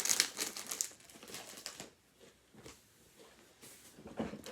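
Crinkling and crunching of a bag of Takis rolled tortilla chips, dense in the first second and then fading to a few faint scattered ticks.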